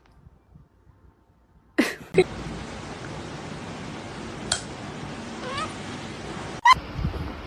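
A cat meowing briefly over steady background hiss. One short rising meow comes about five and a half seconds in, and another short call comes near the end.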